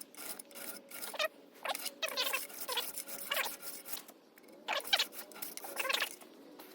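A file scraping along the steel rails of a chainsaw guide bar in short repeated strokes, about two to three a second, each with a little squeal, with a short pause midway. The strokes dress down a worn ridge on the bar's bottom rail so that it sits flat.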